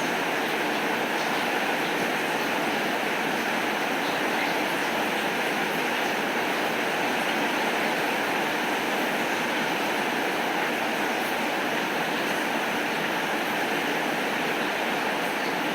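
Steady heavy rain: an even, unbroken hiss of falling water, with faint scattered ticks of drops.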